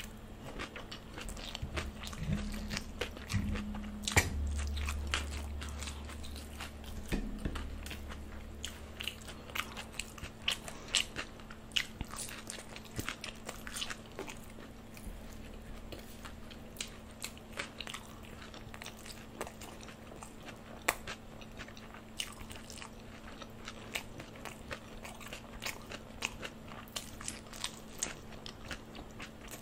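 Close-miked eating: a person chewing mouthfuls of chow mein noodles, with many short wet mouth clicks throughout and a louder bite about four seconds in.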